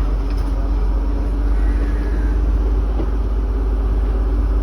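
Class S10 diesel-electric train running, a loud steady low rumble with a faint steady hum over it.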